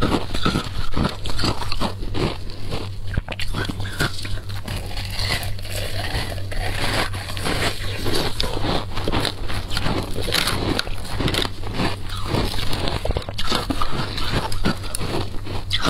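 Close-miked wet eating sounds of passion fruit pulp: chewing, with many small crunches and clicks from the seeds, over a steady low hum.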